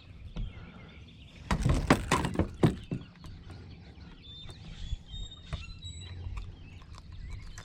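A quick run of knocks and thumps about a second and a half in, lasting about a second and a half, followed by scattered faint clicks with birds chirping.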